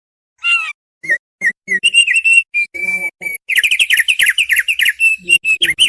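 Thick-billed white-eye (opior paruh tebal) singing a quick, varied series of short, sharp chirping notes. The song starts about half a second in and breaks into a fast, dense run of notes in the second half.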